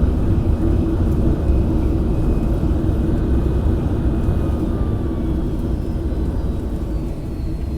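Boeing 757-300 landing noise: a steady, loud, low rumble of engines and airframe with a hum in it, easing off slightly near the end.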